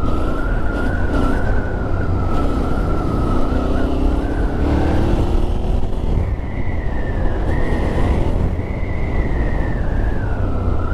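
Yamaha Ténéré 700's parallel-twin engine running on the move, with a heavy low rumble and wind noise; its note rises in pitch between about three and five seconds in. A steady high whistle runs over it, stepping up in pitch about six seconds in and dropping back near the end.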